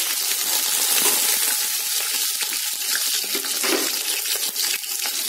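Sliced onions sizzling in hot oil and ghee in a cooking pot, a steady hiss just after being added to the fat.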